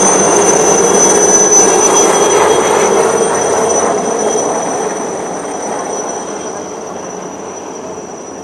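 Navy helicopter's turbine engine and rotor noise with a steady high whine, loud at first and fading steadily as it moves away.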